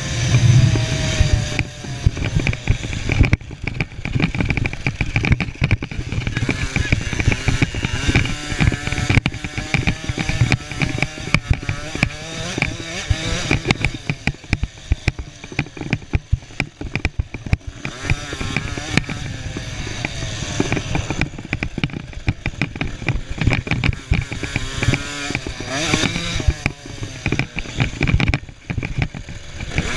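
Small two-stroke 50cc motocross bikes (KTM 50s) racing, several engines heard at once, their pitch rising and falling as they rev and shift through the track.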